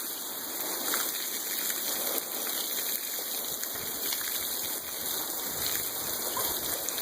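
Rain falling steadily, an even hiss of water that holds level throughout.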